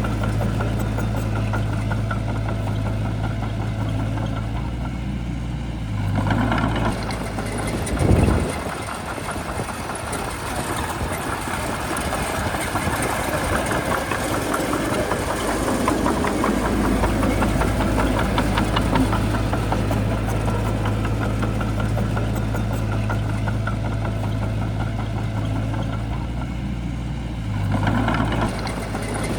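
Heavy diesel engine of a Shantui bulldozer running steadily, rising about six seconds in. A loud thump comes about eight seconds in, followed by several seconds of rattling before the engine settles back to steady running, rising again near the end.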